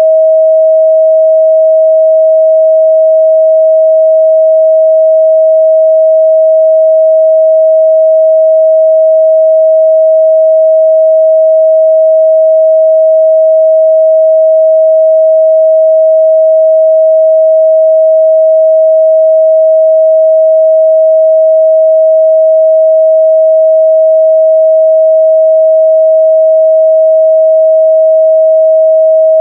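A pure 637 Hz sine-wave test tone held steady and loud, one unchanging pitch with no other sound.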